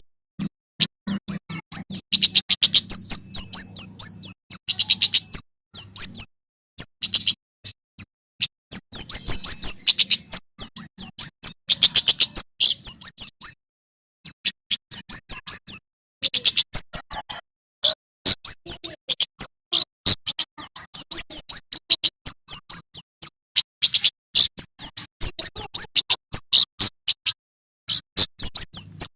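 A male prenjak keres (kemade jawa) singing: rapid bursts of sharp, high chipping notes, each burst a second or two long, repeated with short pauses.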